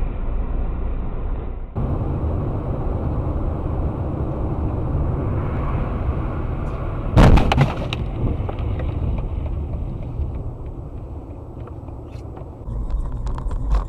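Road and engine noise from a dashcam car's cabin, broken about seven seconds in by one loud collision impact with a brief clattering tail.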